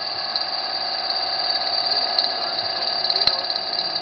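Engine running steadily with a high-pitched whine over it, and one sharp click about three seconds in.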